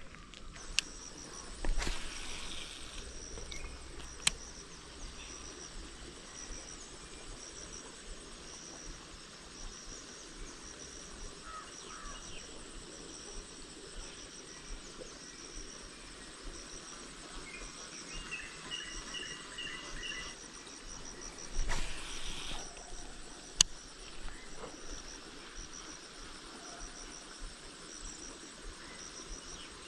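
Insects chirping in a steady, pulsing high trill, with a bird giving a short run of repeated notes about two-thirds of the way through. A few sharp clicks and two brief noisy bursts, near the start and just after the bird, stand out above the trill.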